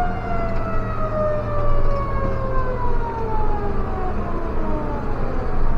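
Fire truck's mechanical siren winding down after being switched off, one long tone sliding slowly and steadily lower in pitch, over the low rumble of the truck's engine.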